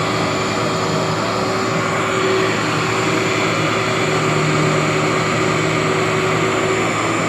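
Workhorse vacuum cleaner running steadily as it is passed over a mat, a continuous motor hum and airflow noise.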